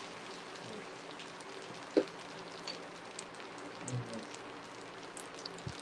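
Spaghetti and bacon sizzling in a stainless steel pot on low heat: a steady frying hiss with small crackling pops, and one sharp knock about two seconds in.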